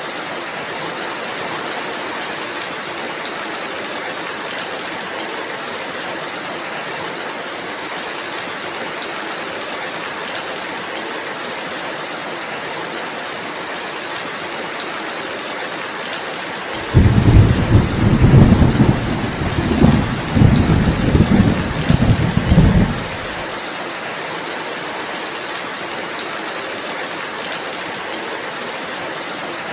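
Steady rainfall, an even hiss, with a roll of thunder about halfway through: the thunder comes in suddenly as a low rumble that swells several times over about six seconds, then dies away into the rain.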